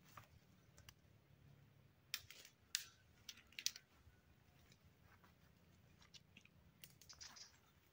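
Faint, scattered sharp clicks and crackles, the loudest clustered about two to four seconds in, over a faint low hum.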